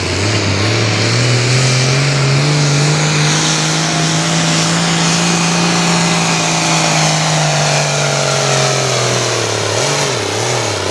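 Turbocharged diesel engine of a Ford 8600 altered farm tractor at full throttle pulling the sled down the track. Its note holds steady for most of the run, then falls away and wavers near the end as the pull finishes.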